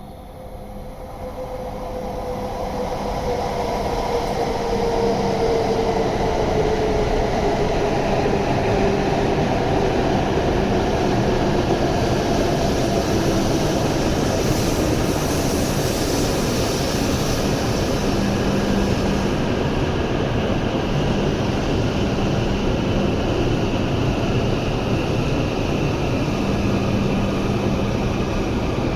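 Running noise of a W7 series Shinkansen, heard from inside the car: a dense rushing rumble that swells over the first few seconds and then holds steady. A tone slides slowly down in pitch during the first half.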